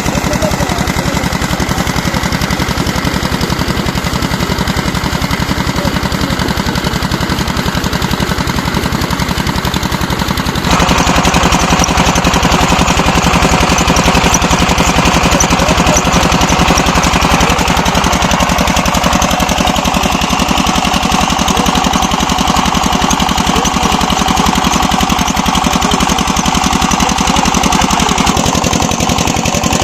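Single-cylinder 'Peter' diesel engine running steadily, driving a tubewell pump, its exhaust beating in rapid even pulses. It gets louder about a third of the way in.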